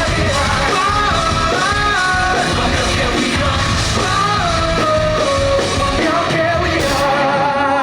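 Live rock band playing with a lead vocal melody over the full band, heard loud from the audience. A sharp crash comes near the end.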